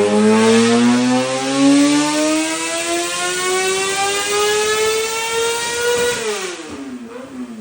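High-revving motorcycle engine accelerating hard, its pitch climbing steadily for about six seconds, then dropping away as the level falls near the end.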